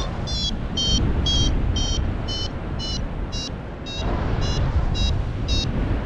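Paragliding variometer beeping about twice a second, its pitch shifting slightly up and down, over steady wind noise on the microphone. A beeping vario signals that the glider is climbing in lift.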